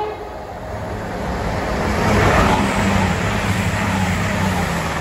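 A train passing: a steady rumble that builds to a peak about halfway through and then fades away.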